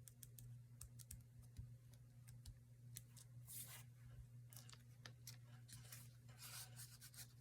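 Faint sounds of paper and craft materials being handled: scattered small clicks and two short rustling swishes, about three and a half and six and a half seconds in, over a steady low hum.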